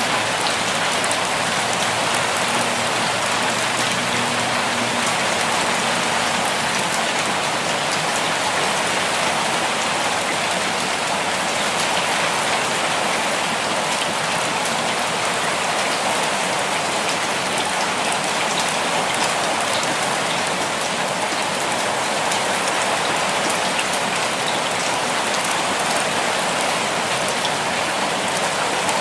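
Steady, even rainfall: a dense constant patter of drops on surfaces, with no thunder or breaks.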